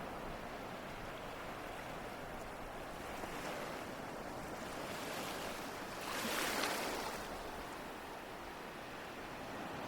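Ocean waves washing on a shore: a steady surf hiss with one wave swelling and breaking louder about six seconds in, then falling back.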